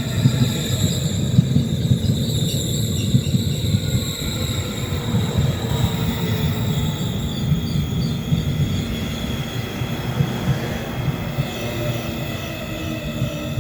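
Korail Class 312000 'Cube' electric multiple unit rolling into the station, with a steady low rumble and clatter of wheels on rail. Over it run high whines and a tone that slowly falls in pitch as the train slows.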